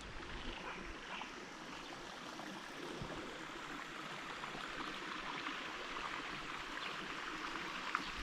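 Stream water flowing steadily, an even hiss of running water.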